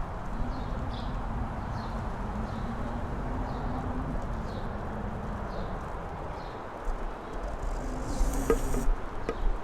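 Wind blowing steadily on a mountain top, with an insect buzzing close by in one steady tone through the first two-thirds. Near the end a louder, hissier gust comes through.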